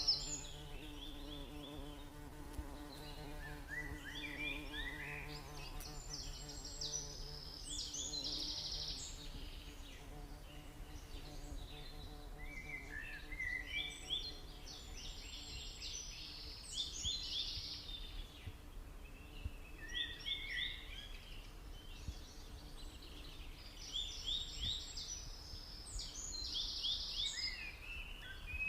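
A small bird singing in long bouts of rapid high chirps and trills, three times, over a steady low hum.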